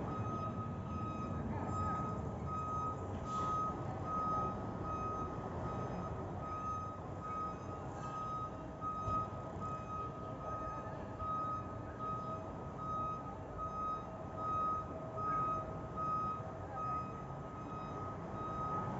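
An electronic beeper sounding an even beep at one pitch, a little more than once a second, over a continuous low rumbling background.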